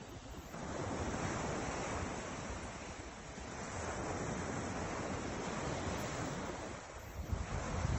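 Ocean surf breaking and washing ashore in slow swells, rising and falling over a few seconds. Wind buffets the microphone in uneven low rumbles near the end.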